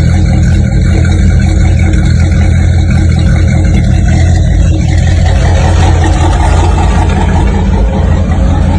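Car engine idling steadily with a deep, even note.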